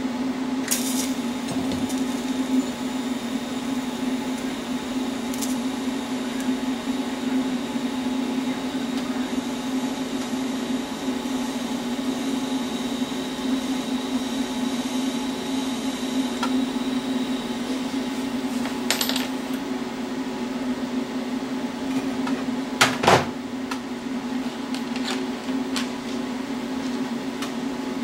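Welding machine humming steadily during tack welding of steel angle and plate, with a fizzy hiss under the hum. A few sharp clicks and taps come through, the loudest a metal knock near the end.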